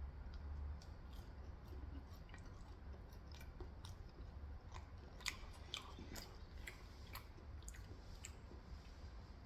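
Faint close-up eating sounds: a person chewing, with a scatter of short, sharp crisp clicks and crackles through most of it.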